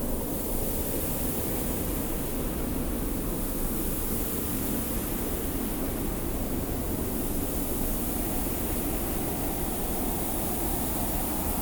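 Steady wind with a high hiss of blowing sand over a low, even rumble.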